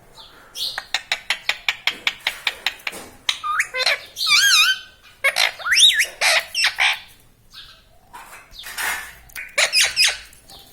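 Pet parrot vocalising: a quick run of clicks, then a few wavering whistles, then harsh squawks.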